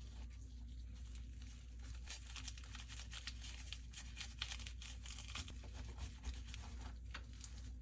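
Packaging being torn and crinkled by hand, a dense run of crackling over a faint steady low hum.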